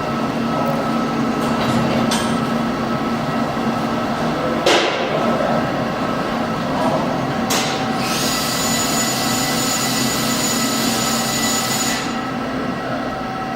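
Steady industrial machinery hum from the bogie hearth furnace and its equipment, with a sharp knock about five seconds in and a hiss lasting about four seconds near the end.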